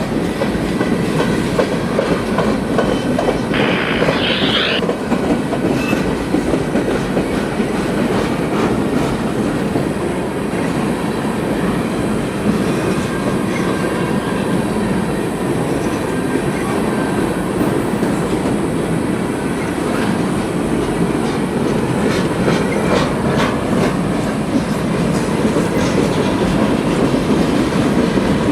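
Freight train cars rolling past, steady wheel-on-rail noise with clickety-clack over the rail joints. A brief high squeal about four seconds in.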